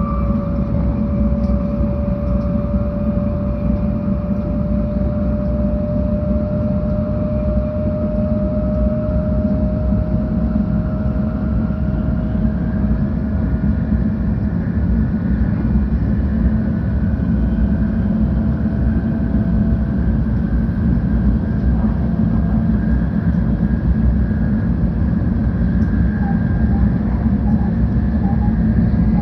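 Interior running noise of a 700 series Shinkansen: a steady low rumble from the wheels and track. Over it, a whine rises slowly in pitch as the train gathers speed after leaving Mikawa-Anjo.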